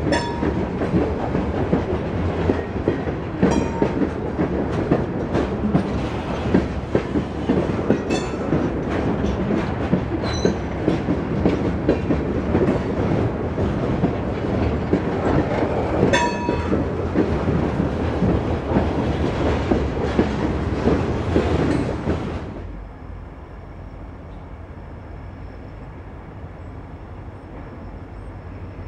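Freight train cars rolling past close by, with wheels clicking over rail joints and a few brief wheel squeals. About three-quarters of the way in, the sound drops suddenly to a much quieter steady rumble.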